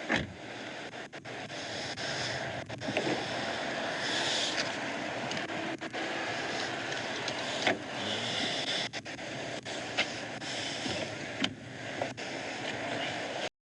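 Steady vehicle noise, a dense rushing sound with scattered clicks and knocks, cutting off suddenly near the end.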